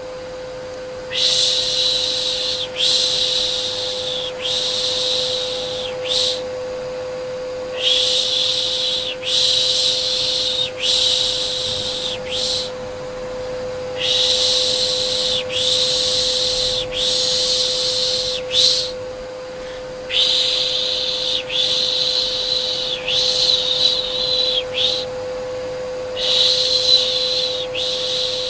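Soft rhythmic 'shh' shushing sounds, about one a second in runs of four or five with short pauses between runs, over a steady vacuum cleaner hum, as white noise for soothing a baby.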